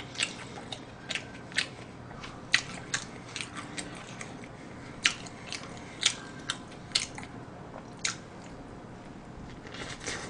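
Person biting into and chewing a Mom's Touch Thigh Burger, a crispy fried chicken thigh burger: irregular crunches and wet mouth clicks, a few a second at most.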